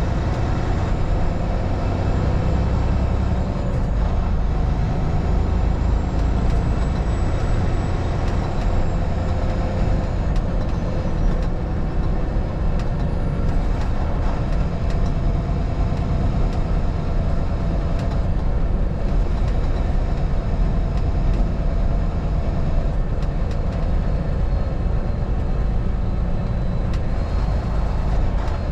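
Steady driving noise of a motor vehicle on the road: a constant low engine and tyre rumble.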